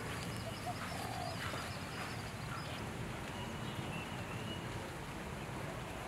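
Birds calling faintly in morning ambience: a thin, wavering high series of notes in the first half and a short held whistled note in the middle, over a steady low rumble.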